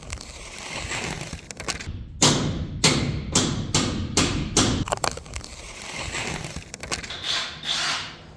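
A run of about seven heavy thumps, two or three a second, over a steady noisy background.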